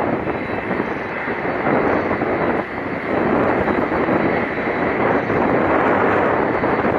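Boeing 747-400 freighter's four jet engines running steadily as the aircraft taxis, a loud, even rushing noise.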